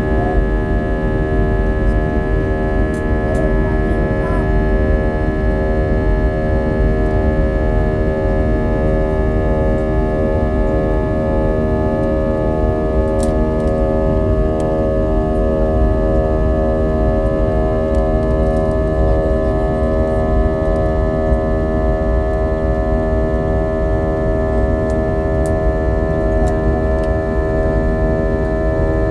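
Cabin drone of a Sukhoi Superjet 100's twin SaM146 turbofan engines under power. Several steady tones over a low rumble beat against each other in a continuous throbbing pulse: the strange takeoff sound that passengers liken to riding a propeller boat.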